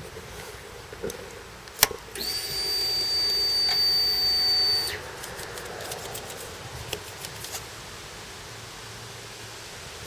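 Suzuki Hayabusa's ignition switched on with a sharp click, then a steady high whine for about three seconds that stops suddenly: the fuel pump priming before a cold start.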